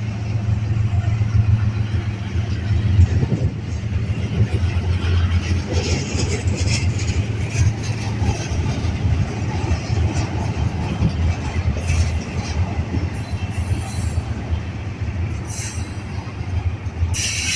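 A train rolling past with a steady low rumble. There are brief high wheel squeals now and then, the strongest near the end.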